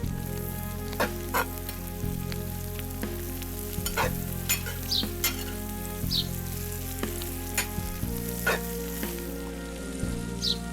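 Food frying and sizzling in a pan while it is stirred, with sharp clicks of the utensil against the pan every second or so.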